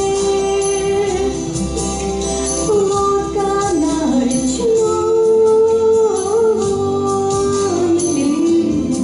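A song: a singing voice holds long notes that slide between pitches over instrumental backing with a steady beat.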